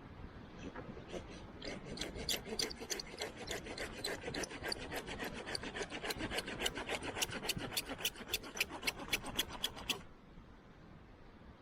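Hand saw cutting through wood in quick, regular rasping strokes, about four a second, building up and stopping suddenly near the end.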